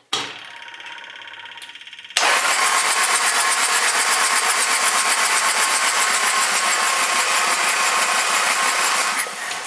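John Deere 855 compact tractor's diesel engine being cranked over by its electric starter without firing, to bring fuel through to the injection pump. A quieter steady mechanical run for about two seconds, then loud, evenly pulsing cranking for about seven seconds until it stops.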